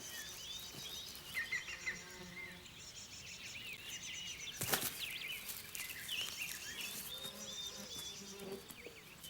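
Natural ambience of many short bird chirps and high, fast insect trills, with one sharp snap about halfway through.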